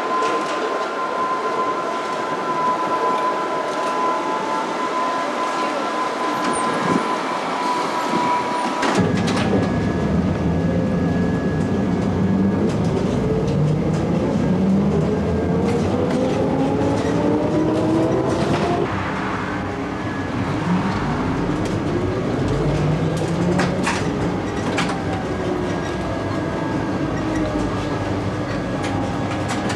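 Electric rail vehicle running: a steady high whine, then about nine seconds in a sudden louder rumble as its traction motors whine upward in pitch while accelerating, twice, with scattered clicks from the wheels on the track.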